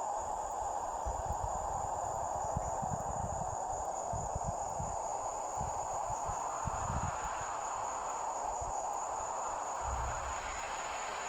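Crickets trilling in a steady, continuous high-pitched chorus over an even hiss, with irregular low rumbling that comes and goes.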